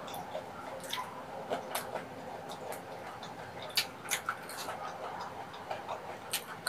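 Close-miked eating sounds: wet chewing and mouth clicks on soft rice cakes and blood sausage in sauce, with light taps of chopsticks and a spoon, coming as irregular sharp clicks with a few louder ones about four seconds in and near the end.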